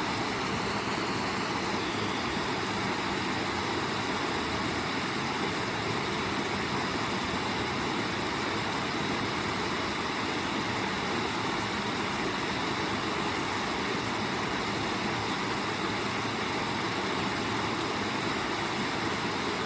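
Waterfall: the steady, unbroken sound of falling water.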